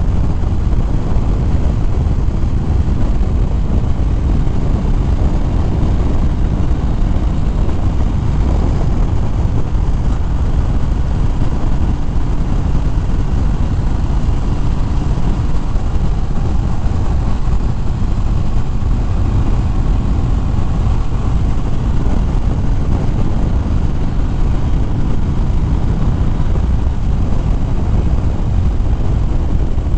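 Steady wind rush on a helmet-mounted microphone at road speed, with the drone of a Harley-Davidson Fat Bob's V-twin engine running beneath it.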